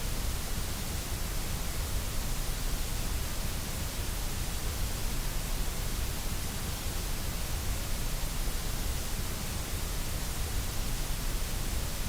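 Steady, unchanging white noise, a hiss-like static spread evenly across the whole range, with a full low rumble underneath.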